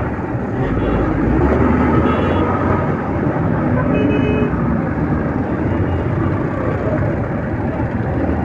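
Steady road noise from riding a motorcycle through traffic: engine and wind on the microphone, with two short horn beeps about two and four seconds in.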